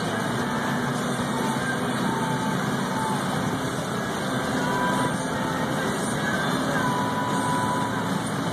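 Mazda RX-8's twin-rotor Renesis rotary engine pulling hard at high revs, climbing toward its 9,000 rpm redline, heard inside the cabin with heavy road and wind noise at well over 100 mph.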